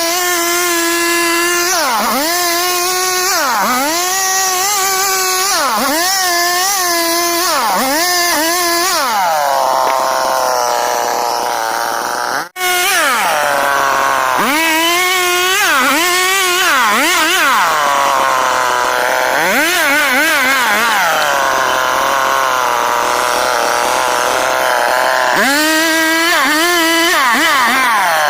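STIHL petrol chainsaw cutting wood: the engine pitch sags and recovers again and again as the chain bites in, about every second or two, and settles to a lower, steady speed between runs of cuts. The sound drops out for an instant about twelve seconds in.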